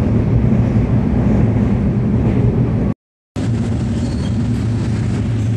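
Steady low rumble of a moving passenger train, heard from inside the carriage. It cuts out briefly about three seconds in.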